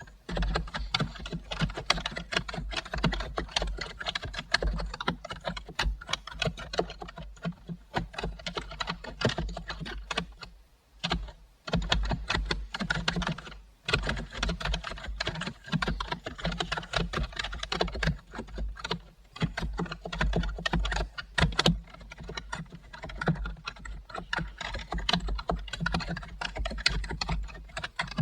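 Typing on a computer keyboard: a steady stream of rapid keystrokes, with a short pause about eleven seconds in.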